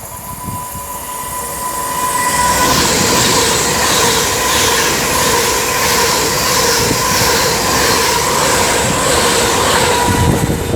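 Avanti West Coast Class 390 Pendolino electric train passing through the station at speed: a rushing noise builds over about two seconds, then holds loud and steady with a thin high tone running through it.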